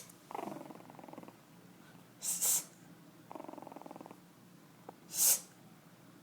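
Chihuahua puppy growling, two short rattling growls a couple of seconds apart. Between and after them come two short, loud breathy hisses.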